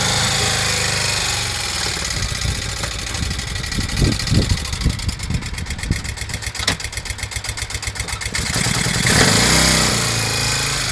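Motorcycle engine fitted in a BMW car, running with a few quick blips of the throttle about four seconds in and a louder rise in revs near the end.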